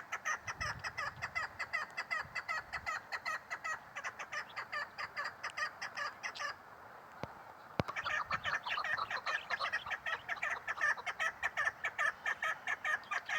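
Female chukar partridge (chakor) calling: a fast run of short, repeated notes at about five a second, in two long bouts broken by a pause of about a second near the middle.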